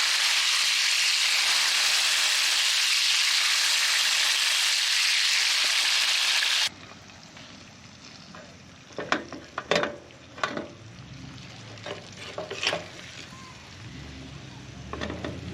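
Hamburger patties sizzling loudly on a camp stove, a steady frying hiss that cuts off abruptly about halfway through. Then a few light knocks and clacks against a quieter background.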